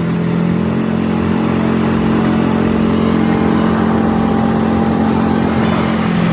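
Kawasaki Mule utility vehicle's engine running steadily under way, a constant loud drone.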